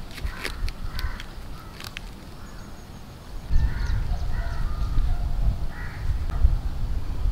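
Birds calling outside in short, separate calls. A few sharp clicks come in the first two seconds, and a low rumble rises about halfway through.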